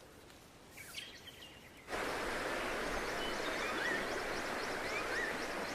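A few faint chirps, then about two seconds in a steady rush of outdoor water-and-forest ambience starts abruptly, with a bird repeating a short twisting whistle about once a second and faint high chirps over it.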